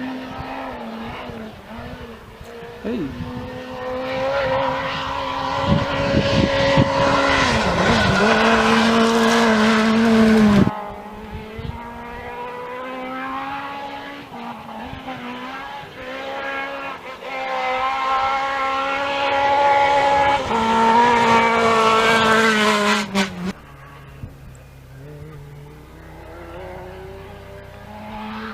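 Rally car engines at high revs on a gravel special stage, two cars in turn. Each holds a loud, fairly steady note with brief dips and then cuts off suddenly. A quieter engine follows near the end.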